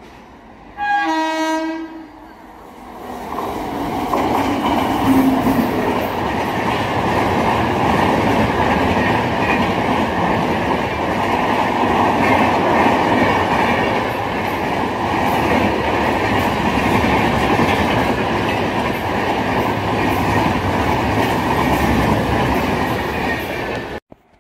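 Train horn giving one short blast about a second in, then a passenger train running through at high speed: a loud steady rush of wheels on rails that lasts about twenty seconds and cuts off suddenly near the end.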